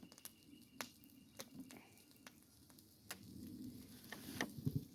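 Campfire crackling faintly, with a dozen or so scattered sharp pops and clicks at irregular intervals.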